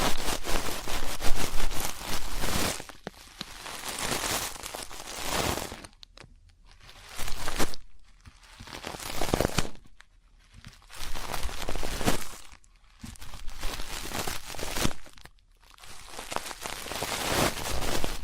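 Close-up ear-cleaning sounds: an ear pick scratching and crackling inside an ear, in bursts of one to three seconds with short pauses between them.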